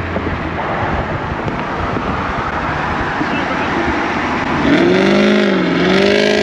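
Cars racing side by side at highway speed: wind and road rush with engine noise. From about five seconds in, a louder engine note comes in, rising and falling in pitch as it revs.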